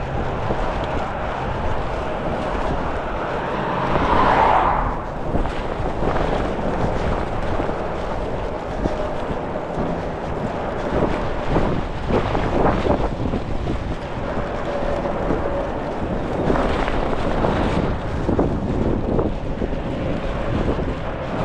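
Strong gusty wind buffeting the microphone: a continuous rumbling rush that rises and falls with the gusts, with a louder surge about four seconds in.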